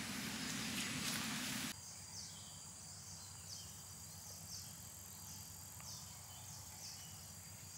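A steady rushing noise that cuts off suddenly about a second and a half in. It gives way to quieter tropical outdoor ambience: a bird repeating a short, high, falling call about twice a second over a faint, steady, high-pitched insect drone.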